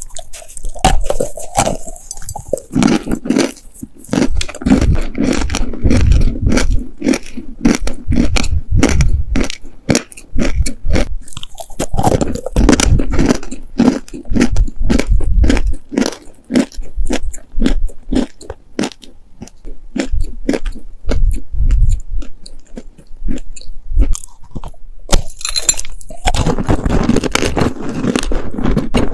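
Close-miked chewing of dry, sandy baked clay cookies: a long run of quick, even crunches, turning into denser, gritty crunching near the end.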